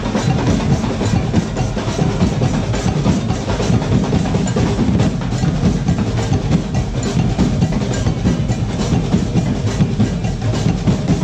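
Percussion music: drums and a wood-block-like click playing a dense, steady beat without a break.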